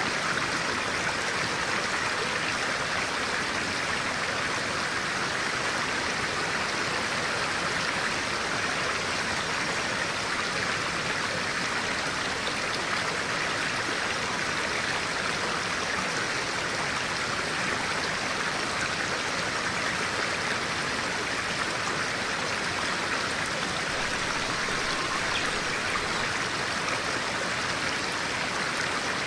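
Running water of a flowing stream, a steady even rush with no let-up.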